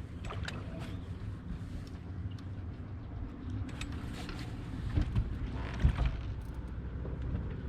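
A boat's motor running steadily, with a couple of knocks about five and six seconds in.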